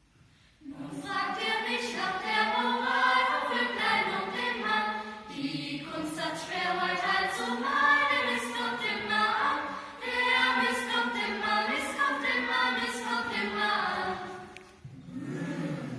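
Youth choir singing a song in German. The voices come in about a second in and stop shortly before the end.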